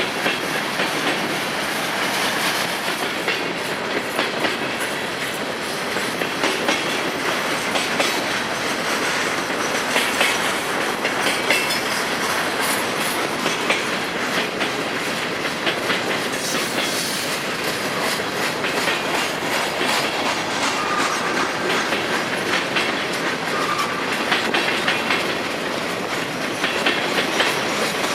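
Freight train cars rolling past at close range, a steady rumble with rapid clicking of wheels over rail joints.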